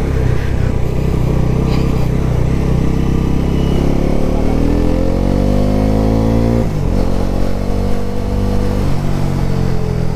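Bajaj Pulsar NS400Z's 373 cc single-cylinder engine pulling hard under acceleration, its pitch rising for a few seconds. The pitch drops sharply about two-thirds of the way in as the rider shifts up, then it pulls again.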